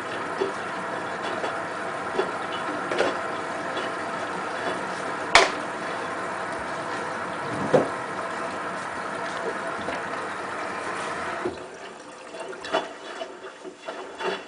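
Hotpoint WT960 washing machine with water running through it over a steady mechanical hum, and a sharp knock or two from the drum. The hum and water noise drop away suddenly near the end.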